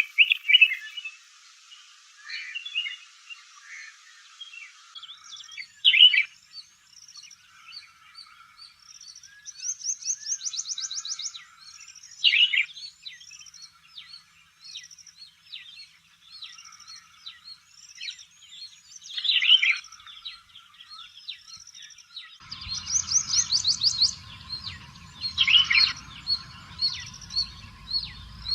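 Birds calling: a red-whiskered bulbul among other small birds. Loud, sharp calls come every six or seven seconds over a steady run of short high chirps, with two fast, high trills. A low rumble comes in near the end.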